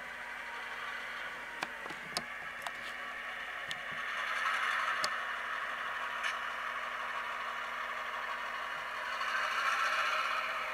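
Sound decoder in an HO-scale model GP38-2 diesel locomotive playing a running diesel engine through its small speaker, thin and without bass, swelling louder twice. Several sharp clicks come in the first few seconds.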